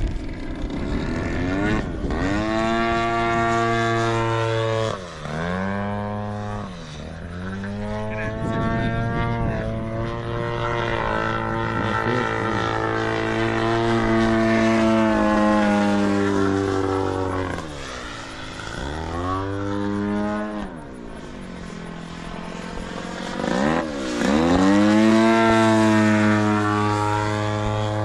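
Radio-controlled model airplane's engine and propeller running hard in flight, its pitch dropping and climbing back up three times as the throttle is chopped and opened through aerobatic manoeuvres.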